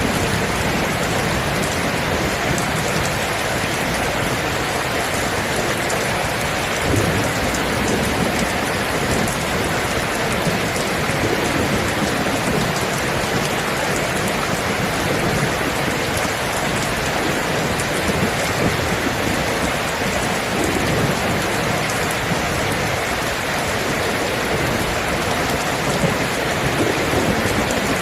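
Steady rain falling, with low rolls of thunder rumbling underneath.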